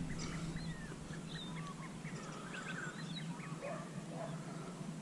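Several birds calling at once: many short chirps and whistles scattered throughout, some sliding in pitch.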